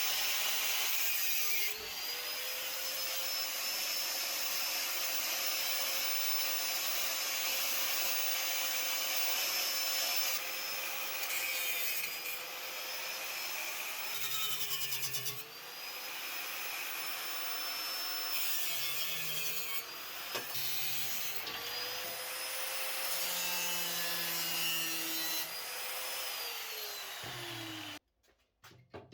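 Angle grinder working the minibike's steel frame, its motor whine dipping in pitch several times as the disc bites under load, then stopping abruptly near the end.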